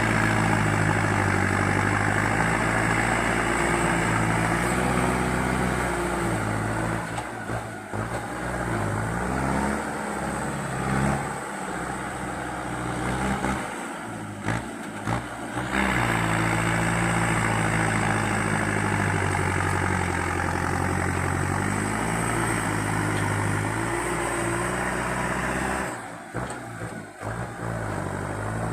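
Kubota tractor diesel engine working hard in deep mud, its pitch rising and falling as it is revved and loaded, with a few short dips in level.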